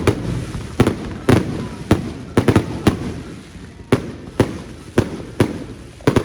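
Fireworks going off in quick succession: about a dozen sharp bangs at uneven intervals, roughly two a second, each trailing off in an echo.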